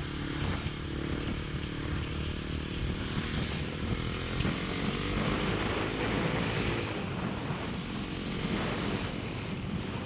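Bajaj Pulsar NS200's single-cylinder engine pulling hard as the motorcycle accelerates, its pitch rising around the middle, under steady wind rush on the microphone.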